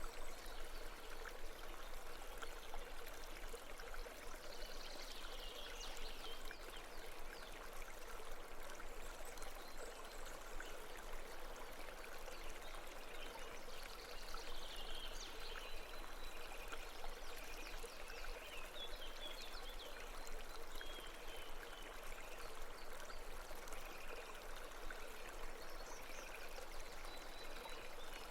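Steady flowing stream, a brook babbling over stones, with short high chirps breaking in every several seconds.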